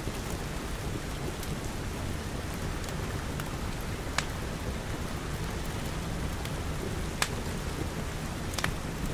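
Steady rain pattering on glass with a low rumble underneath. A few sharp crackles from a wood fire pop out of it about four, seven and eight and a half seconds in.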